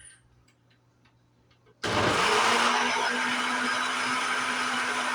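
A few faint clicks, then an electric kitchen blender is switched on about two seconds in. Its motor spins up quickly and runs steadily at full speed, blending coconut with water.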